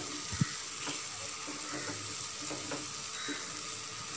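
Thick prawn masala frying in oil in a pan with a steady sizzle, while a spatula stirs and scrapes through it with a few light knocks, the sharpest about half a second in. The oil has separated and the masala is drying out as it fries.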